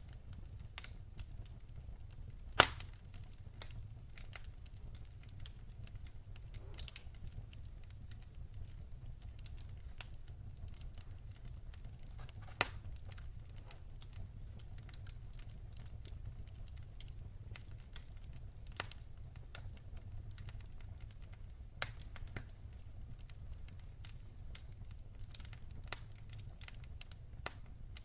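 Campfire crackling: irregular sharp pops and snaps of burning wood over a low steady rumble, with a loud pop about two and a half seconds in and another near the middle.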